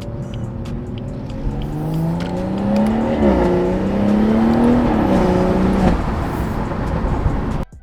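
BMW B58 turbocharged inline-six accelerating hard through the gears, exhaust with the mid muffler removed. The pitch climbs, drops at an upshift, climbs again and drops at a second upshift, then settles; the sound cuts off abruptly near the end.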